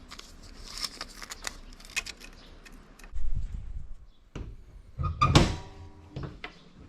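Hood pin hardware being handled and adjusted: scattered small metal clicks and taps, a dull thud about three seconds in, and a louder clank with a brief ringing tone about five seconds in.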